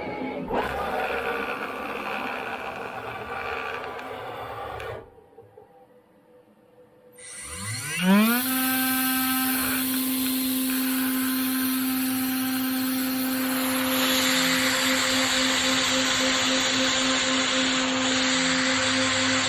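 Tomahawk Pro CNC machine running, stopping for about two seconds, then its spindle spinning back up with a rising whine that settles into a steady high whine. Cutting noise builds over the whine about two-thirds of the way through.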